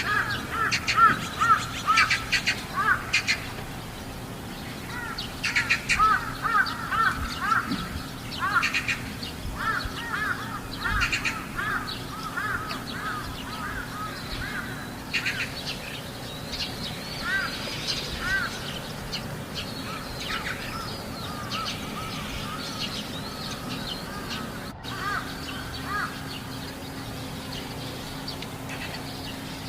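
Crows cawing over and over, many calls in quick runs, loudest and most crowded in the first dozen seconds, then fewer and softer. A steady low hum runs underneath.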